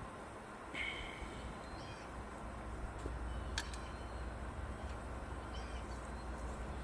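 A few short bird calls over a steady low hum, with one sharp click about three and a half seconds in.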